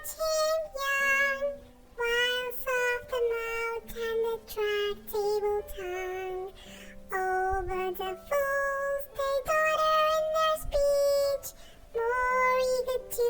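Music: a high, child-like singing voice carrying a melody in short phrases over soft held low accompaniment notes.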